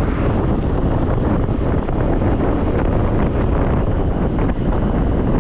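Wind rushing over the microphone of a rider on a moving scooter: a steady, loud rumble of wind noise with road and engine noise under it.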